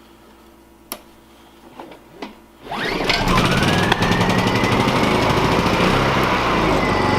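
Honda EU2000 inverter generator's small four-stroke engine started after its clogged idle jet and fuel port were cleared: a click and a few light knocks, then about two and a half seconds in it catches and runs steadily, its whine rising and settling. It is running smoothly, the rough idle cured.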